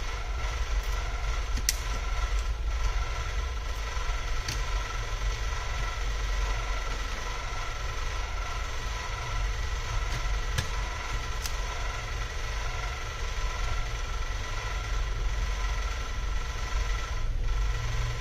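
Steady machine hum with a low rumble and a few constant high tones, broken by a few faint, sharp clicks.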